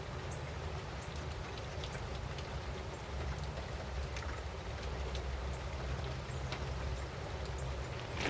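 Steady rain falling, with scattered single drops ticking on a surface and a low steady rumble underneath.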